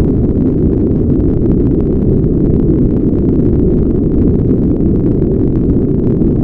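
Steady brown noise: an even, deep rumbling hiss with its energy below about 500 Hz and little above, unchanging throughout.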